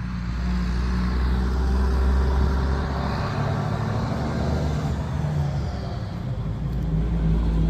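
A motor vehicle's engine rumbling low and steady. It grows louder about a second in and again near the end.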